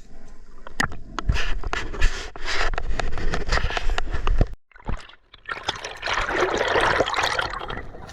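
River water sloshing and gurgling right at the microphone, with many small splashy clicks. A little past halfway the sound cuts out almost completely for about a second, then returns as a strong rush of water.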